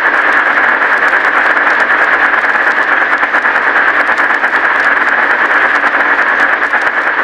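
Steady loud hiss, strongest in the upper-middle range, with scattered crackling clicks.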